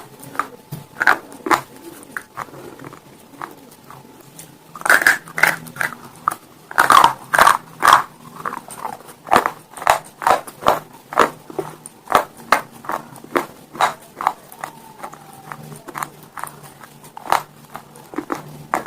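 A person biting into and chewing slate stone close to the microphone, with sharp dry crunches. There are two loud bites, about five and about seven seconds in, then steady chewing crunches about twice a second.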